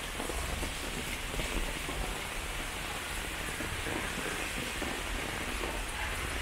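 Heavy rain falling steadily on a wet street and pavement, an even hiss.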